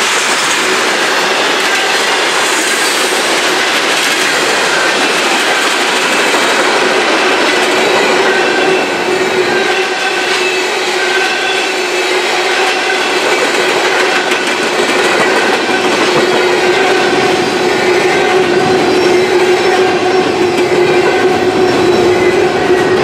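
Freight train's cars rolling steadily past at close range, a loud continuous noise of wheels on rail with a steady ringing tone held underneath.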